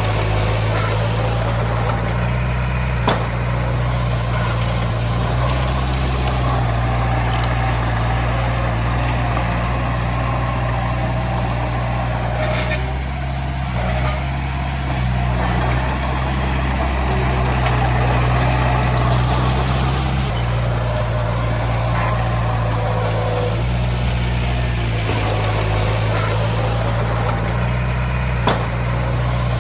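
Heavy diesel engine of earthmoving equipment working continuously, its note rising and falling with the load every few seconds, with a couple of sharp metallic clanks.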